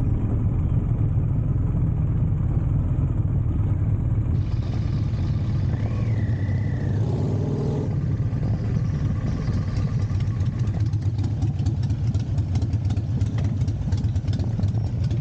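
Big motorcycle engine running steadily. A short rising-then-falling squeal comes about six seconds in.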